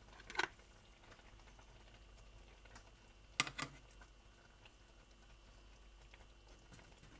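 Quiet kitchen with a few light taps of a utensil against a cooking pan: one shortly after the start and two close together about three and a half seconds in.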